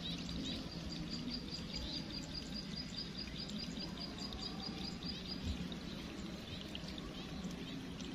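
A bird repeating a short high chirp about five times a second, stopping about five and a half seconds in, among other scattered chirps over a faint low hum.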